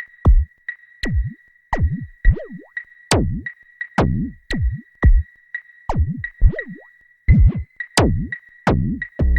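Electronic music: drum-machine hits that drop sharply in pitch, over a steady high tone pulsing about twice a second. A sustained deep bass note comes in right at the end.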